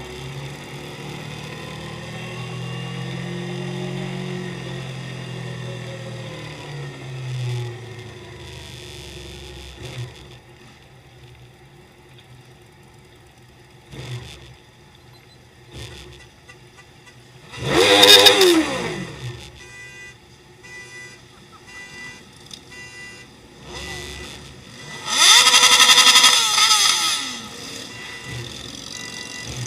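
Motorcycles riding past. A low engine rumble rises and falls over the first several seconds, then two loud pass-bys come about 18 and 26 seconds in, each dropping in pitch as it goes by.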